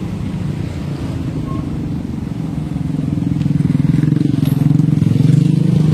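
An engine running: a low, rapidly pulsing rumble that grows louder about halfway through.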